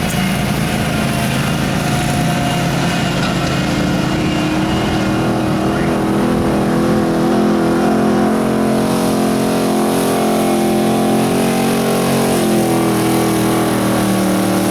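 Pulling truck's engine running hard at high, sustained revs under load during a pull. The pitch climbs slightly over the first few seconds and then holds steady.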